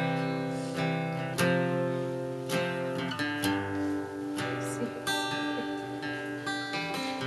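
Acoustic guitar playing the song's instrumental intro: chords strummed about once a second, each left to ring.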